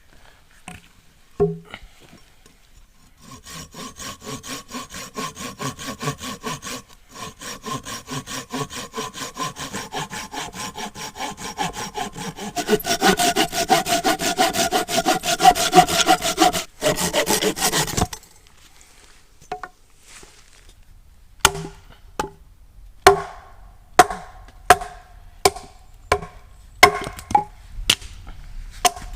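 A hand saw cutting through firewood in quick, rhythmic strokes, getting louder about halfway through and stopping suddenly near the middle. A few seconds later a steady run of sharp, ringing blows follows, about one every three quarters of a second: a hatchet chopping or splitting the wood.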